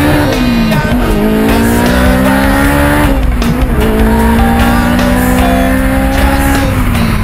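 Four-cylinder engine accelerating hard through the gears. Its pitch climbs steadily, falls at a gear change about three seconds in, then climbs again and falls at another change near the end, with music playing underneath.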